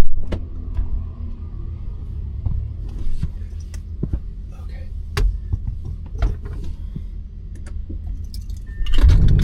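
A loud thump, then keys jangling with scattered short clicks over a steady low rumble; a heavier rumble comes in near the end.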